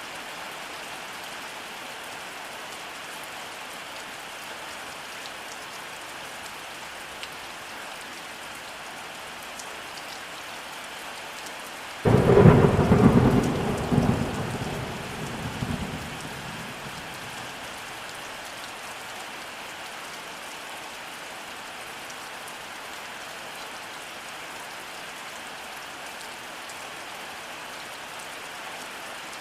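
Steady rainfall with a single thunderclap about twelve seconds in that breaks sharply, rumbles and fades out over about four seconds.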